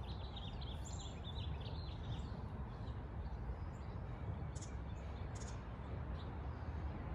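Small birds chirping, a busy patch of short calls in the first second or so and a few single chirps later, over a steady low rumble of outdoor background noise.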